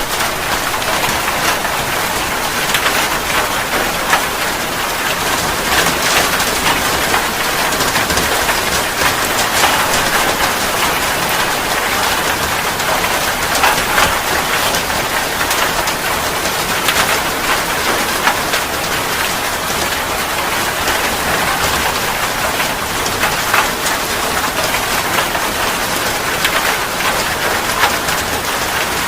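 Steady, loud rain, with many individual drops striking close by.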